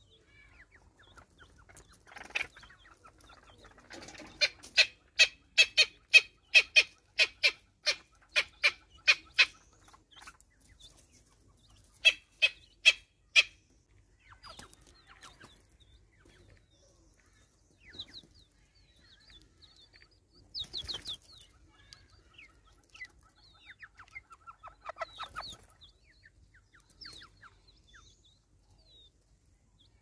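A bird calling a loud, regular series of clucking notes, about two a second, from about four seconds in to nearly ten seconds, then a shorter burst a couple of seconds later. Softer calls follow near the middle and later.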